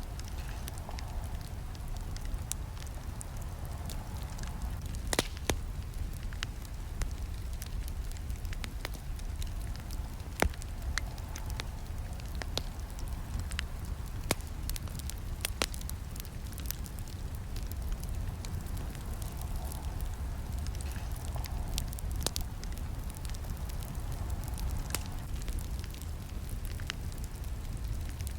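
Campfire burning, with frequent sharp crackles and pops over a low steady rumble of the flames; the loudest pops come about five and ten seconds in.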